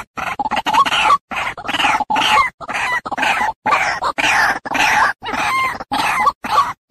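White-breasted waterhen (ruak-ruak) calling: a fast, loud run of short, harsh croaking notes with brief breaks between them.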